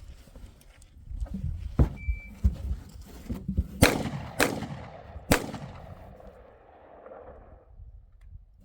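Rifle gunshots: a lighter crack about two seconds in, then three loud shots in quick succession about halfway through, with an echo trailing off over the next few seconds.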